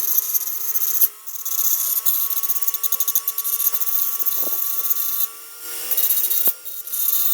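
Handheld rotary grinder grinding down a plastic body-panel mounting tab: a steady high motor whine with grinding rasp, easing off briefly about a second in and again twice near the end.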